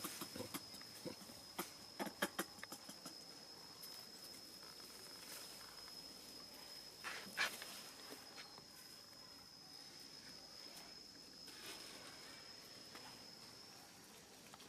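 An insect sings one steady high-pitched note that stops about a second before the end. Scattered clicks sound over it in the first few seconds, and there is one sharp knock about halfway through.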